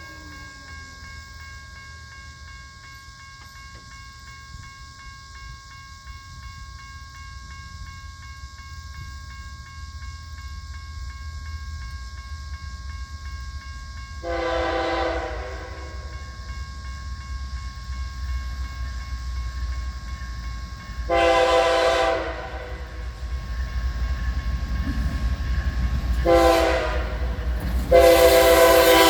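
Nathan K5H five-chime air horn on a GE ES44DC locomotive, an odd raised-letter version with the #3 bell in place of the 1L, blowing the grade-crossing signal: long, long, short, long. The final blast is still sounding at the end. Under it, the rumble of the approaching diesel locomotives grows steadily louder.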